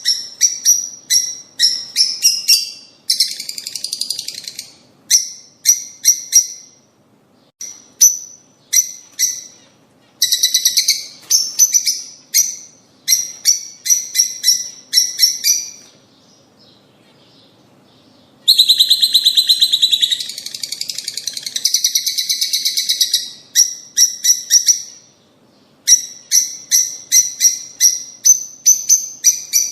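Lovebirds (rosy-faced and Fischer's) calling: runs of sharp, high chirps repeated several times a second, broken by bursts of rapid chattering, the longest a little past the middle, with short lulls between.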